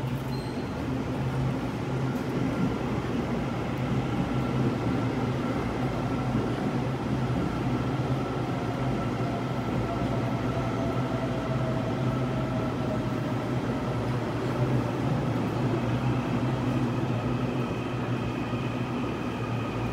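Electric multiple-unit local train running into the platform and braking, its motor whine falling in pitch as it slows, over a steady low hum.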